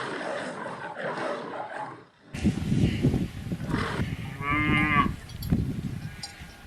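A cow mooing: one drawn-out pitched call a little past the middle, over a low, busy farm background. Before it, a different noisy sound cuts off abruptly about two seconds in.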